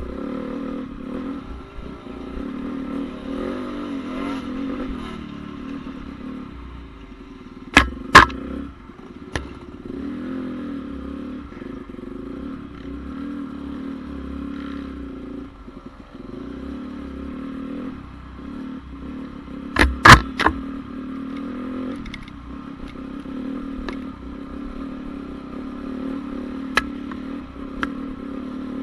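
Honda CRF450R's single-cylinder four-stroke engine running with its pitch rising and falling a little. Two clusters of loud, sharp knocks cut through it, about eight seconds in and again about twenty seconds in.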